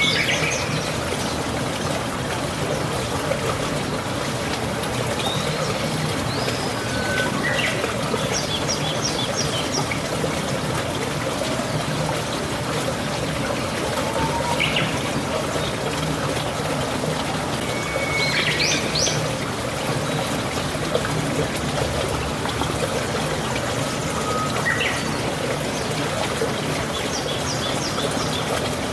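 Steady rain with water trickling and pouring. A bird calls over it every few seconds with short chirps and brief whistled notes.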